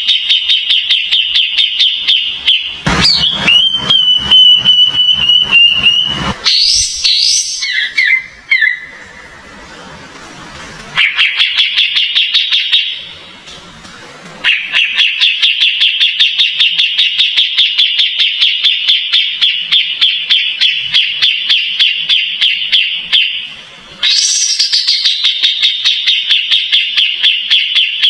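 Kapas tembak songbird singing a fast, continuous string of repeated high chirps, broken by two short pauses. A few seconds in, the chatter gives way briefly to a held, steady whistle.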